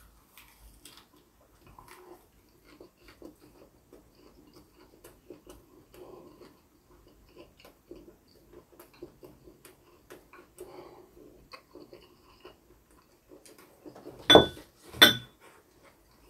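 A man chewing a mouthful of lettuce-wrapped grilled pork belly with his mouth closed: faint, wet, irregular chewing with small clicks. Near the end come two louder short knocks, about a second apart.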